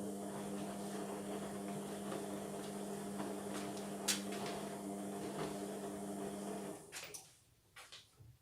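Indesit washing machine running mid-cycle: a steady motor hum that cuts off about seven seconds in, followed by a few light clicks.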